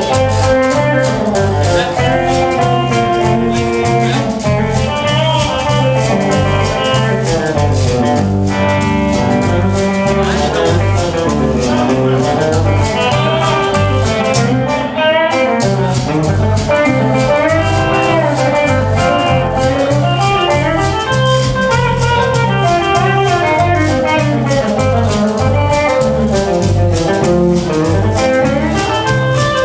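Live band playing an instrumental passage with no singing, over a steady beat and a repeating bass line.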